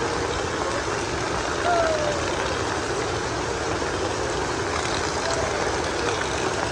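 Steady heavy rain falling, an even hiss. A short high voice sound cuts through it about two seconds in and again near five seconds.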